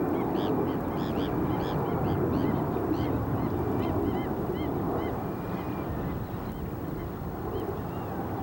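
A flock of birds calling, many short calls overlapping several times a second, thinning out after about five seconds, over a steady low rushing noise.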